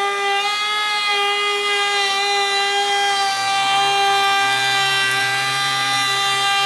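Handheld wood router running with a loud, steady high-pitched whine that dips slightly in pitch in the first half-second and then holds steady.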